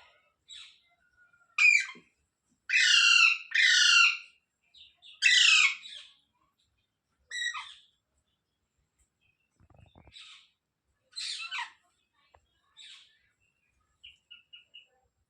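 Indian ringneck parrot (rose-ringed parakeet) calling: a string of loud, harsh screeching calls, the longest and loudest in the first half, then softer scattered calls and four quick short chirps near the end.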